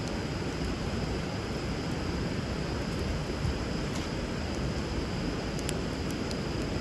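Wood fire crackling with a few sharp pops, over the steady rush of flowing river water.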